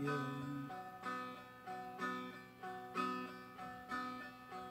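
Seagull Merlin M4, a four-string dulcimer-style instrument, strummed in slow chords about once a second, each left ringing. A held sung note fades out in the first second.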